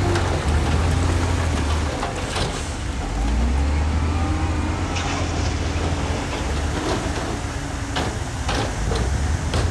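Heavy diesel engine of earthmoving machinery running, its pitch shifting about three seconds in, with several sharp clanks scattered through.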